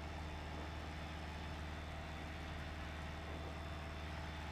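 Piper PA28's piston engine and propeller droning steadily in flight, heard inside the cockpit.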